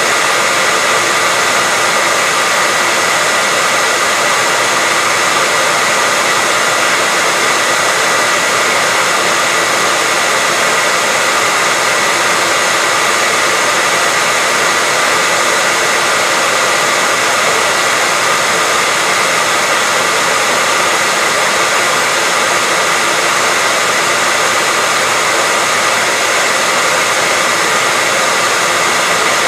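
Hair dryer running steadily, an even airy hiss with a faint steady whine from its motor.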